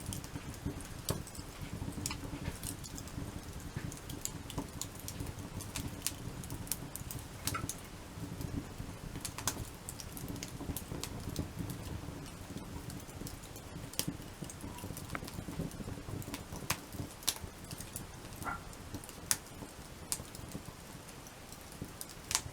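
Wood fire built as a log-cabin crib, crackling with frequent irregular sharp pops over a low, steady rumble of flames.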